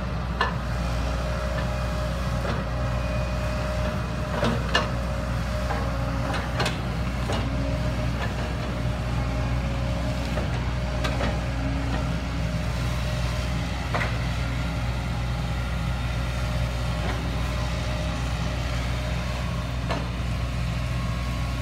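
Heavy diesel engine running steadily at an even pitch, with a few short sharp clanks scattered through, the loudest about four and a half seconds in.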